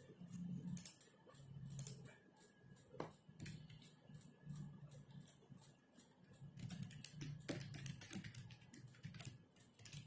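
Faint typing on a computer keyboard: quick, irregular runs of key clicks, densest about seven seconds in.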